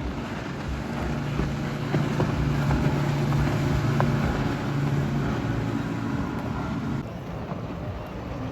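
Motorboat engine running as a boat passes, a steady low drone that swells toward the middle and drops away about seven seconds in, with wind noise on the microphone.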